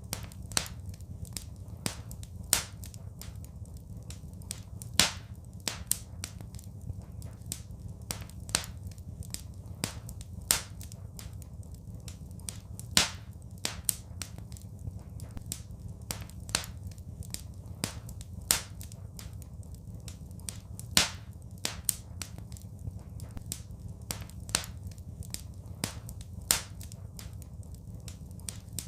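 Wood fire crackling in a fireplace: sharp, irregular pops, a few of them much louder, over a steady low rumble.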